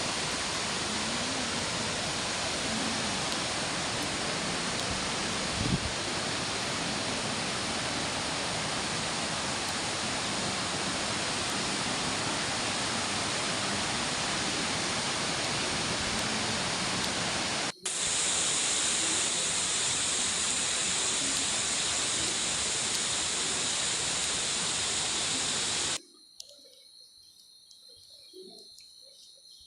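Tirathgarh waterfall rushing steadily. Near 18 s the rush cuts to a slightly louder, brighter rush, and about three seconds before the end it drops away to a faint, quiet background.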